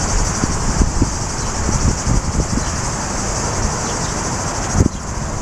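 Cicadas buzzing in a steady, high-pitched chorus over low outdoor rumble of wind and traffic, with scattered knocks and a thump a little before the end.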